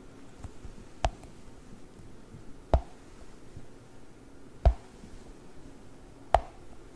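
Sticky Globbles gel balls being pressed and peeled, giving four sharp sticky pops spaced about two seconds apart.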